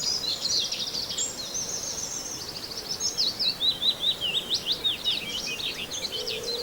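Common whitethroat singing a fast, scratchy warbling song of rapid chattering notes and short trills, high-pitched and without a break.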